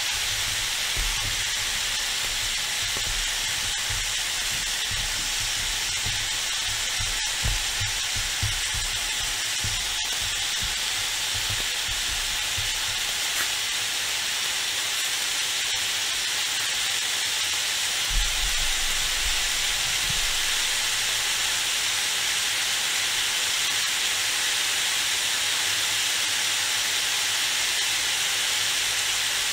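Cubed zucchini frying in oil in a pan, a steady hiss of sizzling.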